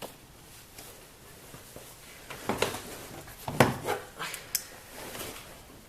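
Handling noise from the glove box and dashboard trim of a 2003 Subaru Forester being worked loose: a few scattered knocks and clatters, the loudest about three and a half seconds in, then a short rubbing scrape.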